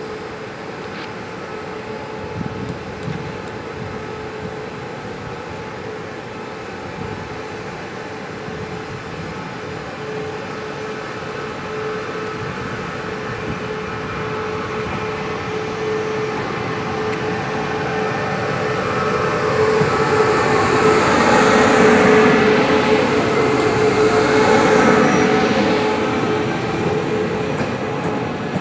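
Taiwan Railways E1000 push-pull Tze-Chiang express train departing and passing close by. A steady electric hum and the rumble of wheels on rail build as the power car nears, loudest around twenty to twenty-five seconds in as the cars go past, then easing.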